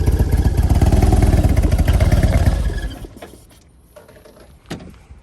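Harley-Davidson Road Glide's V-twin engine running with a fast, pulsing low rumble, then switched off about two and a half seconds in. A single sharp knock follows about two seconds later.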